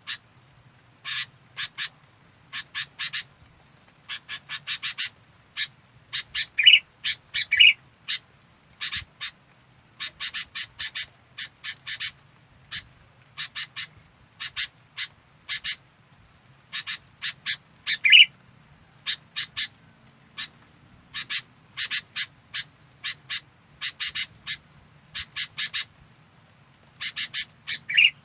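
Sooty-headed bulbul (kutilang) calling: short, sharp notes repeated in quick clusters of two to four, with a few louder, lower notes here and there.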